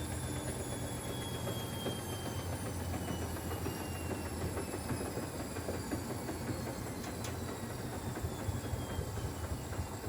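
Siemens Extraklasse XLS 140 A washing machine running, with a low rumble and a motor whine that falls slowly in pitch as the drum slows down.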